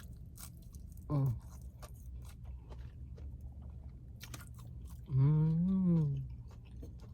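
A person chewing crunchy fried food close to the microphone, with many small crackling crunches. There is a short hum about a second in and a longer 'mmm' of enjoyment, rising then falling in pitch, near the end.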